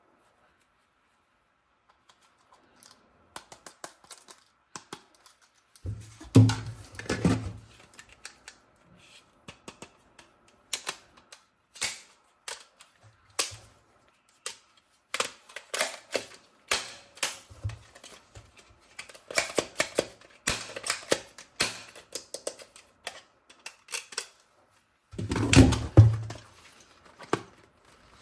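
Many sharp, irregular clicks and knocks of objects being handled, with heavier clattering bursts about six seconds in and again near the end.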